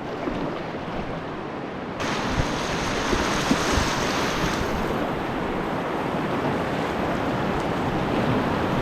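Rushing whitewater of a river rapid, a steady hiss that gets louder about two seconds in, with a couple of light knocks.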